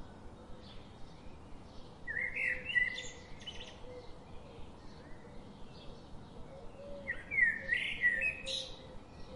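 Birds chirping and calling in two bursts, one about two seconds in and another about seven seconds in, over a faint steady background.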